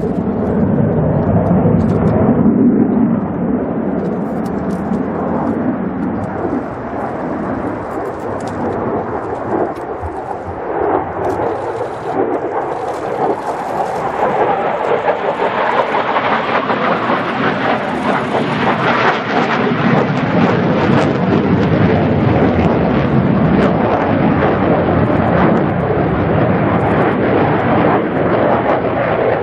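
F-16 Fighting Falcon fighter jet's engine noise, a continuous deep rumble that turns brighter and louder about halfway through as the jet flies its display.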